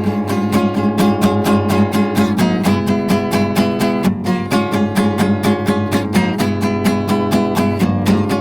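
Guitar strummed in a quick, steady rhythm, as an instrumental passage with no singing.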